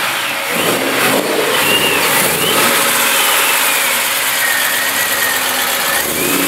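Supercharged V8 of a tuned Shelby GT500 convertible running at low speed as the car pulls away, with a thin high whine that rises and falls over the engine note.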